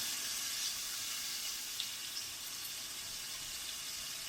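Oil sizzling steadily in a frying pan as food fries, with an occasional faint pop.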